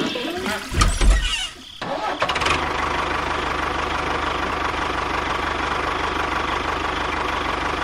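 A small engine starts about two seconds in and then runs steadily with a fast, even pulsing.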